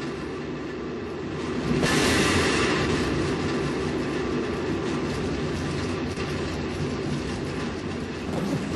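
Steady rumbling vehicle noise that swells about two seconds in and rises to a sharp, loud peak right at the end.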